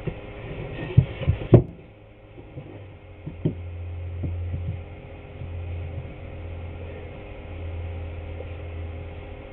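Three sharp knocks about a second in, then a few lighter taps and a low steady hum.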